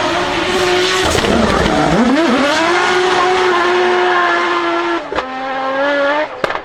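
A performance car's engine note. About two seconds in its pitch dips and swings back up, then it holds steady before dropping a step at about five seconds. A few sharp cracks come near the end.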